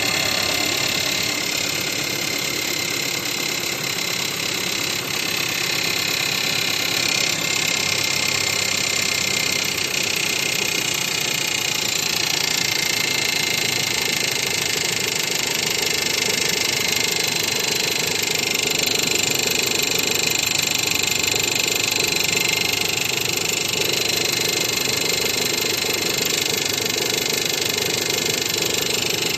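Skoda Kodiaq engine running steadily with an abnormal noise: a constant high-pitched whine of several steady tones over an even hiss.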